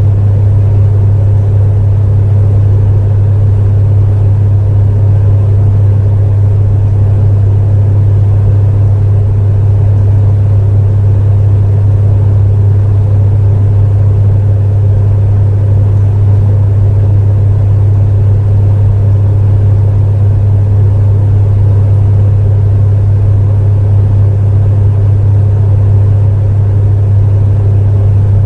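Space heater running steadily: a loud, unchanging low hum with a dull rushing noise over it.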